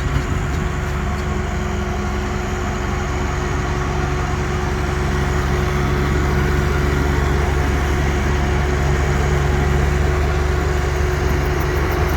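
Heavy diesel engine running steadily, a low drone with a constant tone that builds slightly in level.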